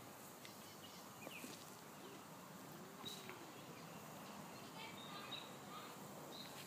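Faint background hiss with a few short, high bird chirps scattered through it.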